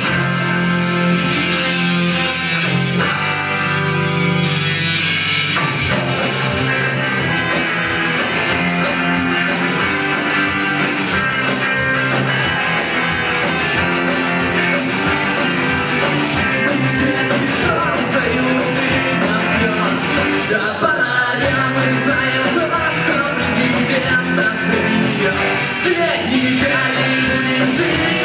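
Live rock band playing: guitar chords held for the first few seconds, then the drums come in about six seconds in and the full band plays on with a steady beat.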